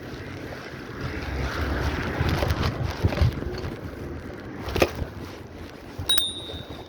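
Wind buffeting the microphone, a steady rumbling hiss, with a sharp click just before the five-second mark. Near the end a brief steady high-pitched ring starts.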